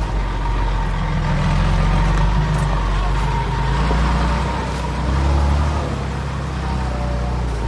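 Heavy diesel engine of earthmoving machinery running steadily, its low rumble swelling and easing a few times.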